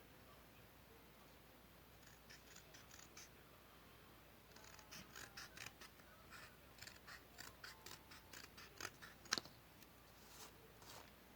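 Scissors cutting paper in quick runs of faint snips, with one sharper click near the end.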